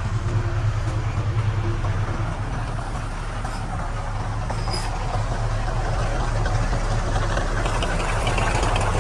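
Diesel engine of heavy earthmoving equipment running steadily under a low hum, with some light rattling toward the end.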